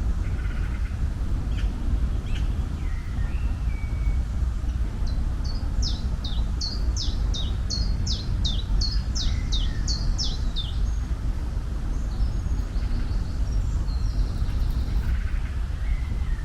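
A songbird singing a run of about a dozen quick falling notes, roughly two a second, with a few short separate chirps before and after it. Under it runs a steady low rumble.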